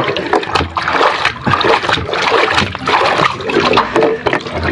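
Water splashing and sloshing in irregular bursts as a muddy toy is washed by hand, with short knocks of the toy against the container.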